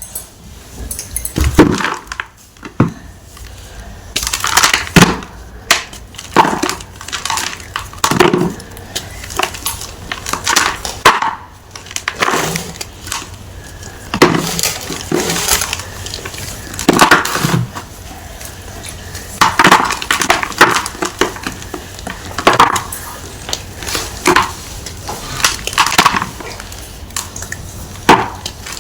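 Block of gym chalk being crushed, a series of crisp crunches every second or two as it breaks apart.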